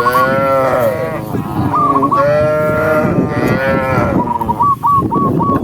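Cows mooing: three long, drawn-out moos one after another, with short high calls repeated between them and near the end.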